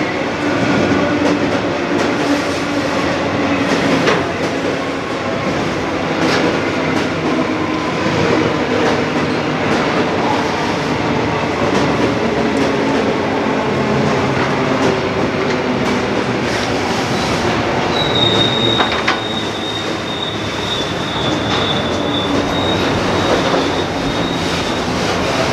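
Container wagons of an intermodal freight train rolling past, a steady rumble and rattle with occasional sharp clunks from the wheels and couplings. About two-thirds of the way through, a high, steady wheel squeal starts and holds for several seconds before fading.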